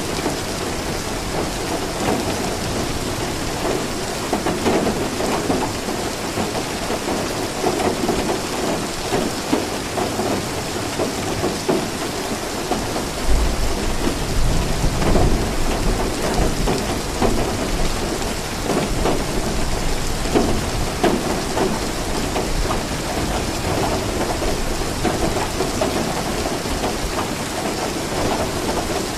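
Steady heavy rain pattering on a surface, with a low rumble of thunder swelling about halfway through and fading over several seconds.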